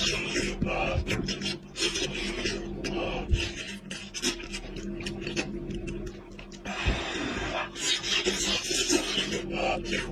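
Close-up eating sounds of goat head meat being chewed and gnawed: irregular wet clicks, smacks and rasping scrapes.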